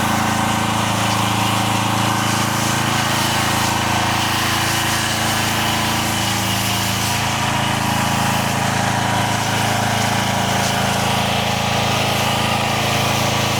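A 4 GPM pressure washer's engine running steadily with its revs turned down, under a steady hiss.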